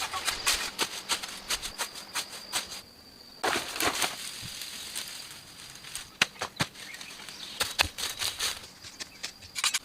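Irregular crackling and rustling, like dry twigs and leaves being handled or stepped on, with a denser rustle about three and a half seconds in.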